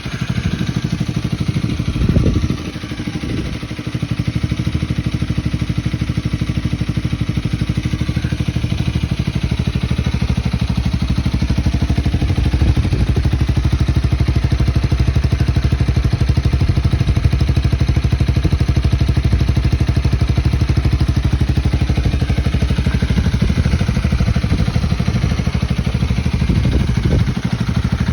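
Honda Rebel 250's single-cylinder engine running at idle through an aftermarket muffler, with a steady low pulse. There is a short surge about two seconds in, and the level dips briefly just after.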